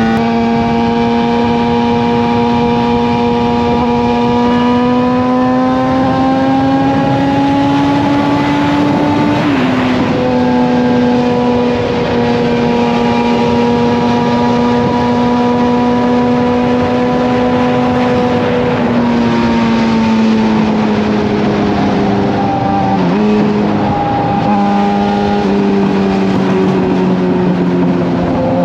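Suzuki GSX-R750 inline-four with a slip-on exhaust under way at highway speed: the engine note climbs slowly under throttle, drops sharply at a quick upshift about nine seconds in, holds steady, then falls away as the throttle eases and starts rising again at the very end.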